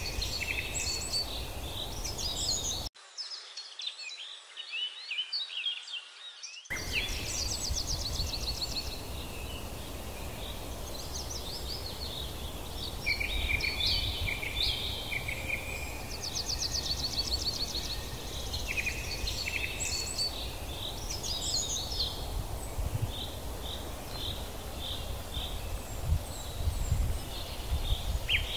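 Several small birds chirping and singing in short rapid trills, call after call, over a steady low rumble.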